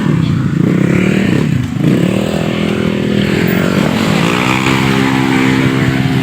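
Motorcycle engine running under throttle. Its pitch dips briefly a little under two seconds in, then climbs steadily and levels off.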